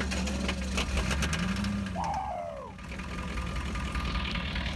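The 6.2-litre diesel V8 of a 1986 GMC truck running with a steady low drone and clatter, shortly after a hard start following two years of sitting. About two seconds in, a short high call falls in pitch over it.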